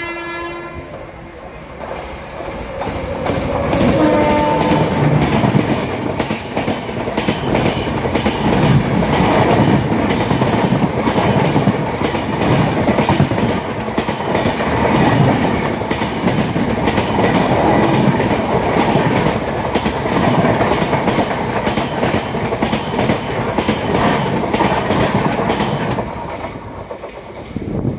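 Train running, steel wheels clattering over rail joints with a steady loud rumble. It builds up over the first few seconds and dies away near the end.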